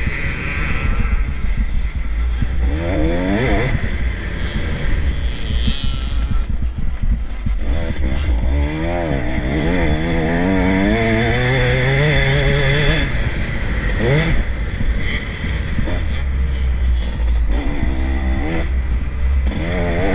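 Several motocross bikes racing past, their engines revving up and falling away again in turn as they accelerate and shift, over a steady low rumble.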